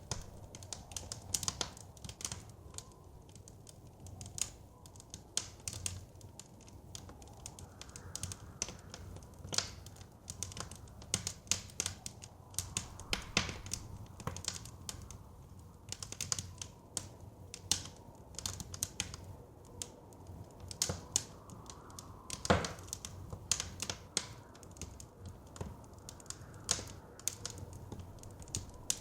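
Wood fire crackling, with irregular sharp snaps and pops several times a second over a steady low rumble of wind. One pop about three-quarters of the way through is louder than the rest.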